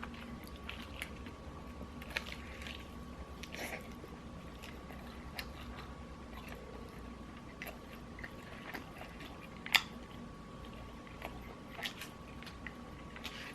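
Close-up chewing and biting of crispy fried chicken: irregular crisp crunches and mouth sounds, the sharpest crunch about ten seconds in, over a faint steady hum.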